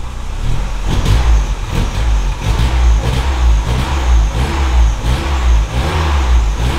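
A VW Golf Mk2's four-cylinder petrol engine, freshly fitted with a Weber 32/34 DMTL mechanical carburettor, running with its speed rising and falling repeatedly. The engine is running again, with the manual choke serving as its cold-start device.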